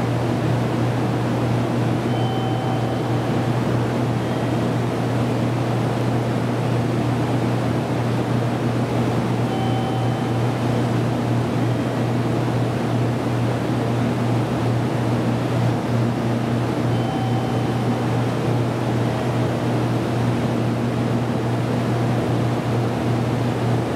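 Steady low hum of a standing JR Kyushu 787 series electric train's onboard equipment, with a faint short beep repeating about every seven seconds.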